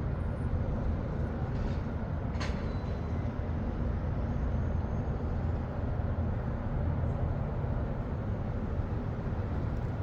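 Steady low rumble of city traffic moving through snow on the street below, with one brief faint click about two and a half seconds in.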